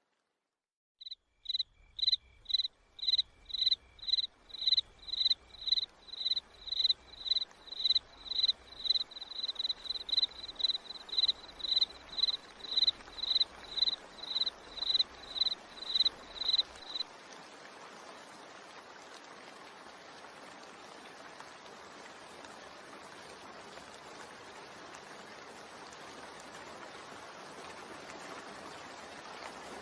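Steady rain noise that slowly grows louder. Over its first half, a small animal gives short high chirps, about two a second, which stop about halfway through.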